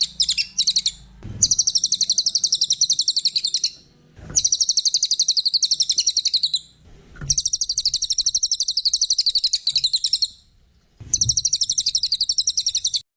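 A cililin songbird singing a rapid, high, chattering trill in runs of two to three seconds with short pauses between, each pause marked by a brief low thud. The song cuts off suddenly near the end.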